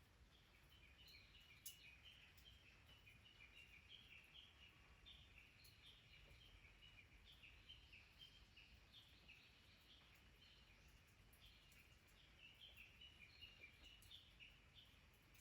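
Faint chirping of small wild birds: a steady stream of short high notes hopping up and down in pitch, with a few scattered clicks.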